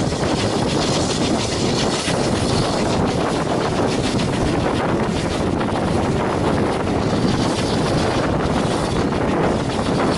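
A steady rumble of a railway train in motion, with wind buffeting the microphone.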